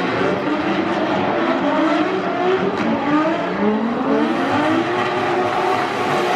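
Drift cars' engines revving hard, their pitch climbing and dropping again and again as the throttle is worked, over the steady hiss of tyres sliding.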